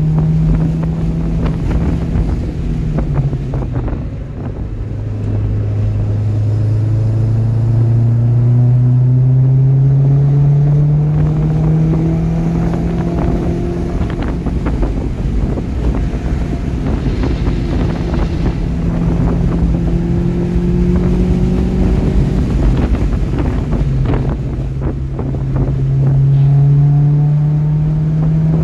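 2012 Subaru Impreza STI's turbocharged flat-four engine running hard under acceleration, heard from inside the cabin with wind and road noise. Its pitch drops about four seconds in, then climbs for several seconds, and drops again near the end before rising once more.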